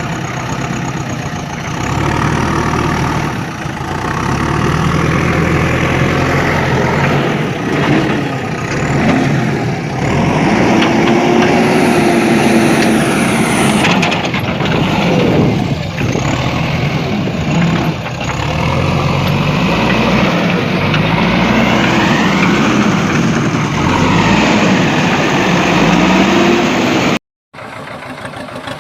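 Tractor and JCB backhoe loader engines running, their pitch rising and falling as they rev up and settle back. The sound cuts out abruptly for a moment near the end, then an engine runs on more quietly.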